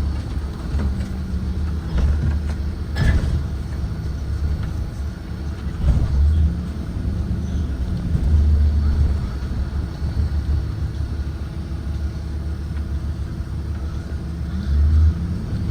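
A 2023 Blue Bird Vision propane school bus running: a steady low engine rumble that swells and eases several times, with one sharp knock about three seconds in.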